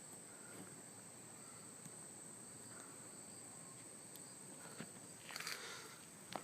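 Quiet background: an even hiss with a faint steady high-pitched whine, a few faint ticks, and a brief scuff like a footstep about five seconds in.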